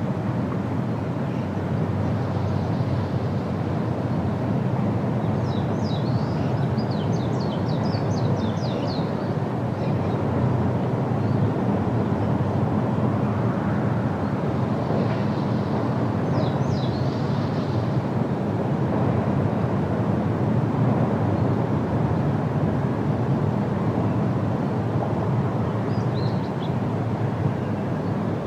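Steady wind rushing through trees, with small birds chirping in short flurries of quick high notes three times.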